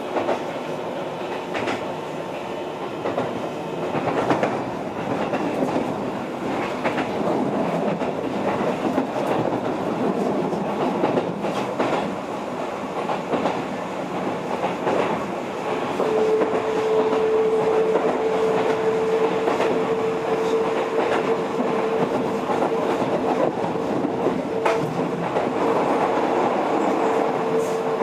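Keihan 3000 series electric train running along the line: a steady rumble of wheels on rail with occasional clacks over rail joints. About halfway through, a steady high tone sets in and holds, and the running sound grows a little louder.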